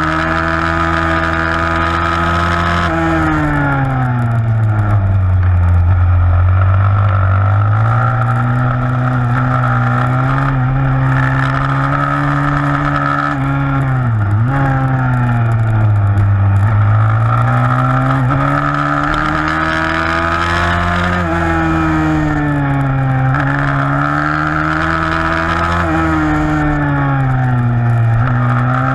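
A 160cc single-cylinder four-stroke pit bike engine under race load. Its pitch repeatedly climbs as the throttle is held open, then drops away as the rider shuts off, with a sharp quick dip about 14 seconds in.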